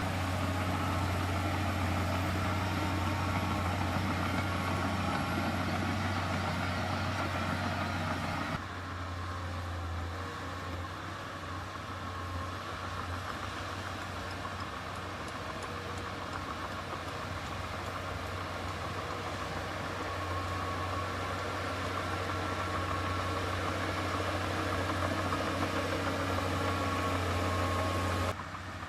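Heavy diesel construction machine engine running steadily with a deep, even hum. The sound drops a little in level abruptly about eight seconds in, then carries on the same.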